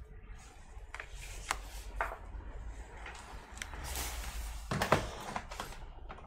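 Scattered light clicks and knocks from hands handling small laptop parts and tools during a trackpad swap, with a sharper knock about five seconds in.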